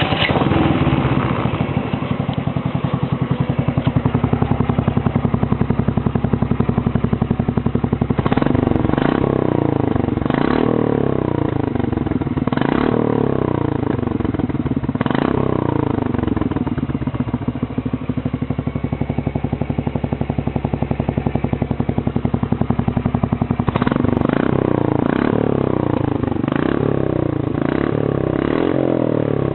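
LML 4T scooter's four-stroke single-cylinder engine through a Tasso race exhaust, catching at the start and idling, then blipped on the throttle: a few separate revs rising and falling, and later a quick run of repeated blips.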